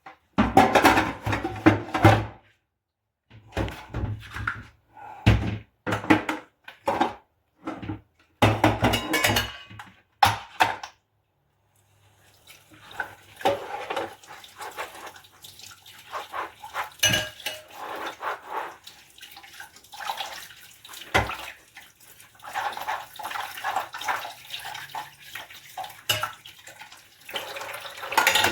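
Dishes being washed by hand in a sink: short bursts of clattering and scrubbing with gaps between, then from about twelve seconds in the tap runs steadily while dishes clink under it.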